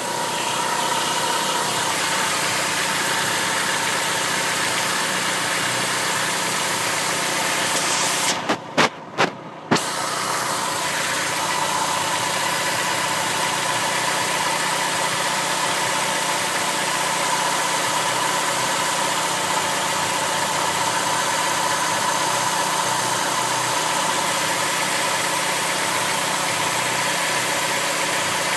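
Chrysler PT Cruiser's four-cylinder engine idling steadily, heard close up under the hood. About nine seconds in, the sound dips briefly under a few sharp clicks.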